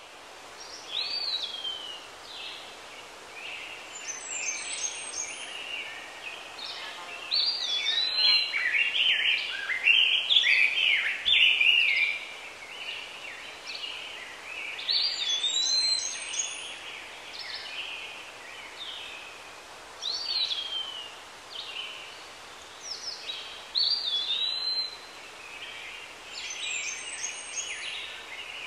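Birds singing and calling over a steady background hiss, several different whistled phrases, some sliding down in pitch, repeating every few seconds; busiest around the middle.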